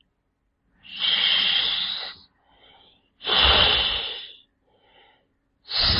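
Snake hissing: three long hisses, each a bit over a second, with faint short puffs between them. The last starts near the end.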